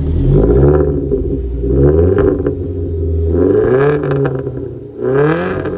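Alfa Romeo estate's engine blipped through its original exhaust line, revving up and falling back about four times. There are a few sharp cracks as the revs drop in the later blips.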